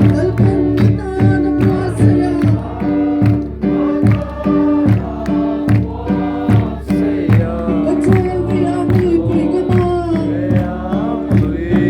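Group singing of a hymn with a steady backing of keyboard or band and a regular beat about twice a second.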